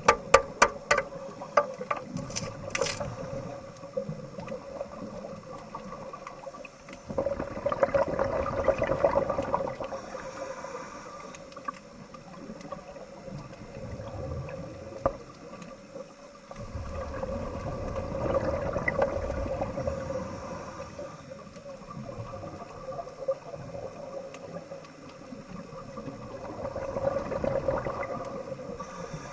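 Underwater bubbling and gurgling that swells up and dies away about every ten seconds, over a steady hum.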